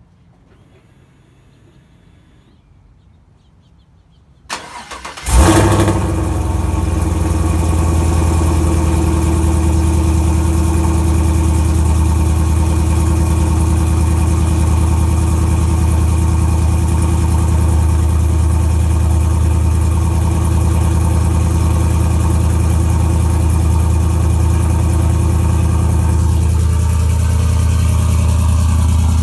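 2017 GMC Sierra's 5.3-litre V8, with long-tube headers, no catalytic converters and a single MagnaFlow muffler, cold-started: brief cranking about four and a half seconds in, a loud flare as it catches, then a steady idle.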